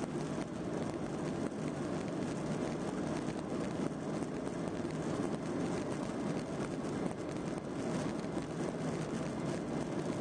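Steady cabin noise inside a Boeing 737-800: the low rumble and hum of its CFM56-7B jet engines running at low power with the airframe, even and unchanging, as heard while the aircraft is on the ground before take-off.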